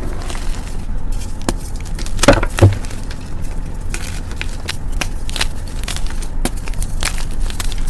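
Gym chalk being crushed close to the microphone: soft, crumbly crunches and crackles, with two louder crunches a little over two seconds in.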